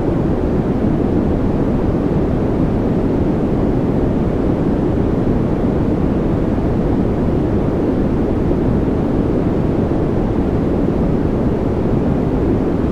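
Continuous generated white noise: a steady, unchanging hiss with a deep rumbling body.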